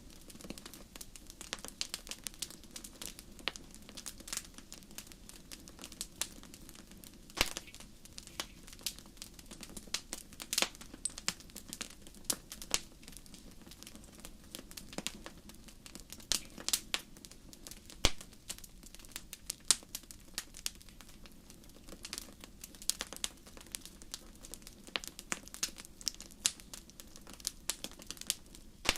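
Fire crackling: irregular sharp pops and snaps, several a second, over a steady low rush.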